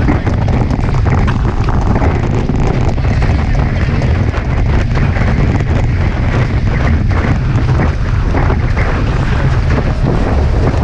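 Heavy wind buffeting the microphone in about 30 knots, with a steady rush of water past the hulls of a Hobie Tiger catamaran sailing at speed.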